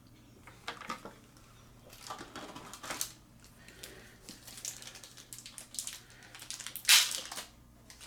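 Booster packaging being handled and opened: irregular rustling, crinkling and small clicks, with a louder crackle about seven seconds in.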